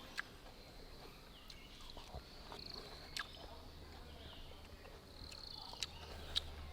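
Faint outdoor forest ambience with high bird chirps and trills, broken by a few sharp clicks, the loudest two near the end.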